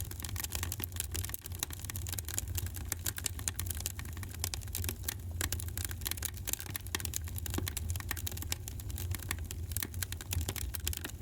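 Wood fire in a fireplace crackling: many small irregular snaps and pops over a steady low rumble of the flames.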